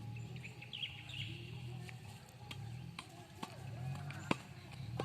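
Birds chirping in short calls over a low, unbroken background murmur, with a few sharp clicks.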